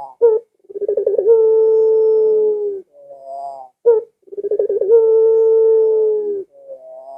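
Puter dove (pelung type) cooing, twice: each coo opens with a soft rising note and a quick stuttered start, then holds a long steady low note for about one and a half seconds.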